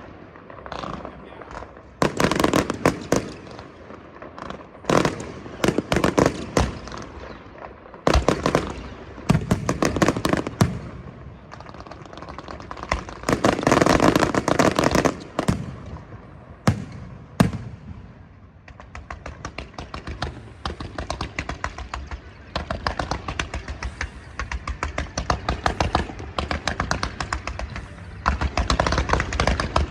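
Aerial fireworks bursting in repeated clusters of sharp bangs. After about eighteen seconds they give way to a fast, even rattle of many small pops.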